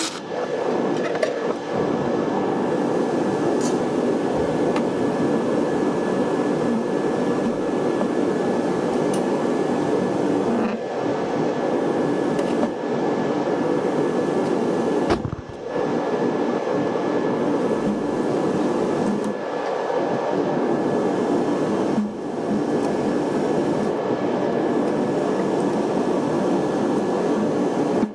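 A steady machine whirr, like a motor or fan running, with a faint high steady whine over it; it briefly drops out twice.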